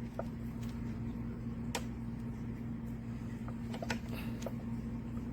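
Steady low electric hum from a small motor in an automatic cat feeder and water fountain unit, with a few faint clicks.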